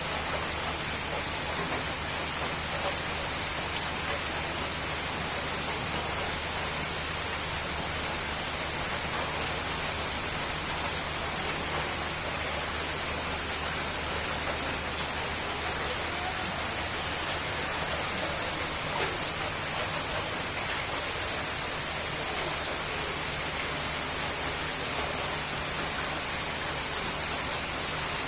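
Steady rain: an even hiss with scattered drop ticks, holding at a constant level, over a low steady hum.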